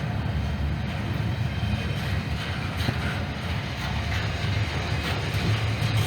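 Norfolk Southern freight train rumbling past, a steady low rumble of locomotive engines and rolling cars.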